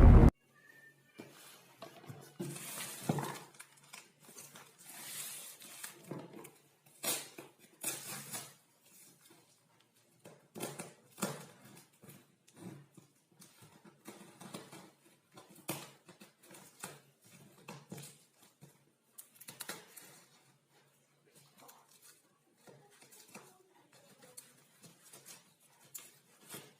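Scattered small clicks, knocks and rustles of objects being handled, irregular and spaced out, with no motor running.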